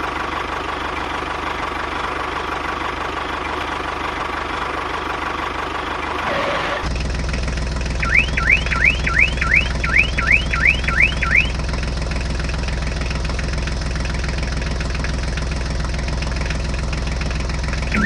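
A small motor humming steadily, its hum turning deeper about seven seconds in. In the middle comes a run of quick rising electronic chirps, about three a second, for a few seconds.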